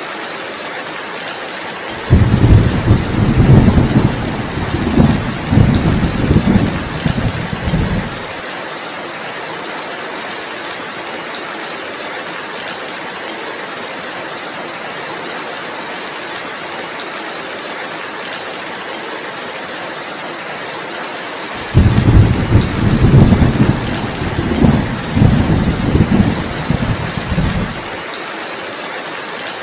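Steady heavy rainfall, with two low rumbles of thunder, each lasting about six seconds and starting and stopping suddenly, the first about two seconds in and the second near the end.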